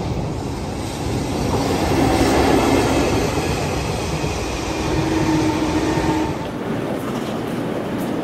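Train of an EF65 electric locomotive hauling the Royal Express cars passing close by: a steady rolling rumble of wheels on rail, with a thin whine coming and going as the cars go by. About six seconds in, the sound cuts to a lighter train rumble with a few clicks.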